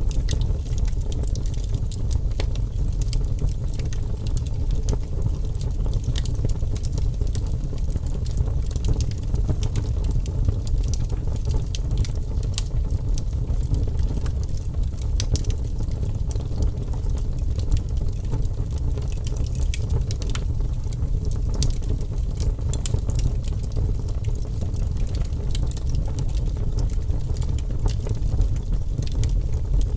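Wood fire in a fireplace crackling, with frequent sharp pops and snaps over a steady low rumble of burning.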